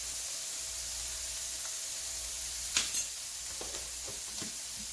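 Shrimp sizzling in oil in a frying pan, a steady hiss. Two sharp clicks come about three seconds in, followed by a few faint knocks.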